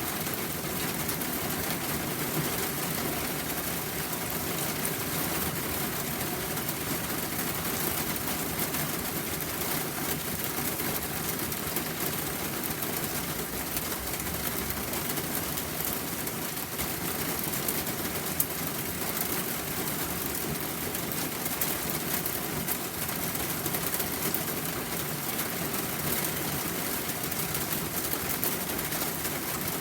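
Steady rain falling, an even hiss with a patter of fine drops throughout.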